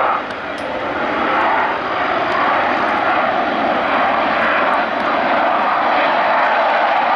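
Steady, loud jet noise from a Blue Angels F/A-18 Hornet's twin GE F404 turbofans flying past, a rushing roar that holds level throughout.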